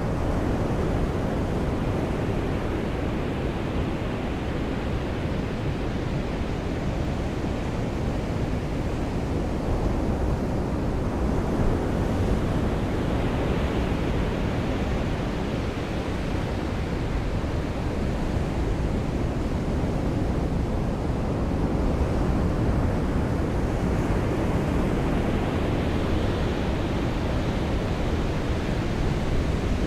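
Ocean surf rushing steadily, with waves swelling twice, about halfway through and again near the end.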